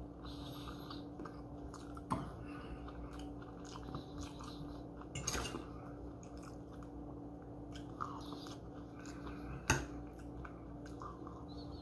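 A person chewing food, with a few sharp clicks of a fork against a plate, the loudest near the end.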